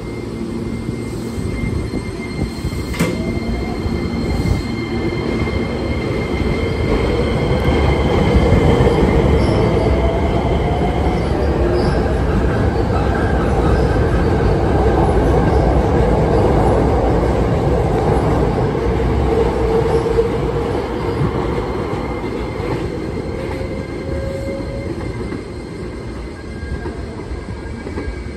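Hankyu 9300 series electric train pulling out and accelerating past: the motor whine rises in pitch as it gathers speed over a rumble of wheels on rails. It grows loudest midway as the cars pass, then fades as the train draws away.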